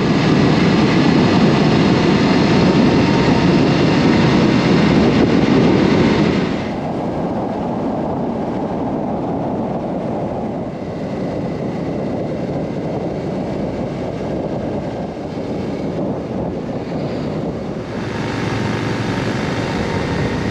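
Motorcycle on the move: engine and rushing road and wind noise, louder for the first six seconds, then easing off, and rising again near the end.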